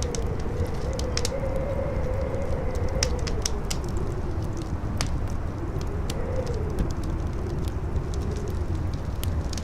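Howling wind with a low, wavering moan that rises and falls in pitch over a steady rush. Sharp crackles and pops from a burning wood fire are scattered through it.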